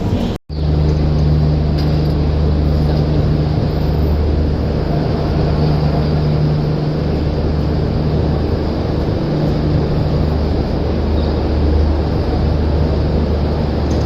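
Steady low hum and rumble of an Indian Railways train, with a constant low drone throughout. The sound cuts out for an instant just under half a second in.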